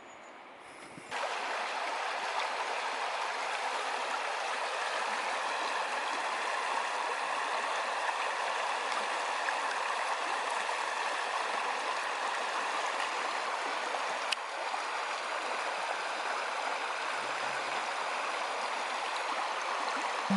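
Mountain river rushing steadily, an even roar of flowing water that cuts in abruptly about a second in. A single sharp click sounds about two-thirds of the way through.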